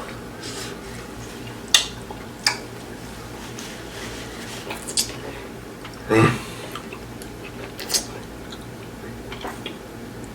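Eating sounds: a few scattered sharp clicks and smacks, with one short vocal sound about six seconds in, over a low steady hum.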